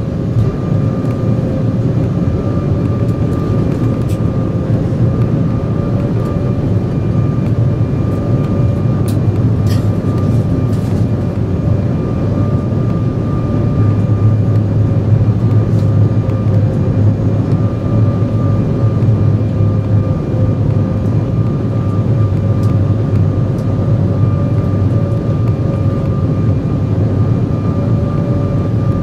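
Cabin noise of an Embraer 175 airliner in flight: the steady whine of its GE CF34-8E turbofan engines over a low rumble and the rush of air past the fuselage, with the whine's pitch wavering slightly.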